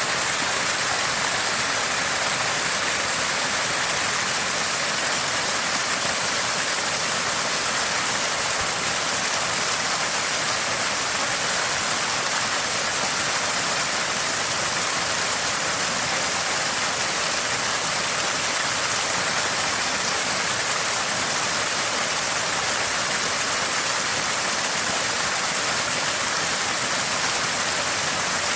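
Small spring of water gushing and gurgling steadily, a constant bright splashing.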